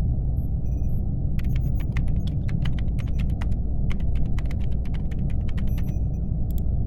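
Laptop keyboard typing: a run of irregular clacks starting about a second and a half in and stopping near the end, over a steady low hum.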